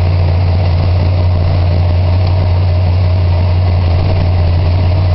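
Chrysler 400 cubic inch big-block V8 running at a steady cold idle just after a cold start, still on the choke with a little shake to it. An even, loud, low hum.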